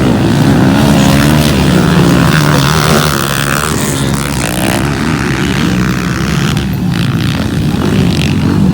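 Motocross motorcycle engines running hard on the track: a loud, continuous engine drone whose pitch rises and falls as the throttles open and close.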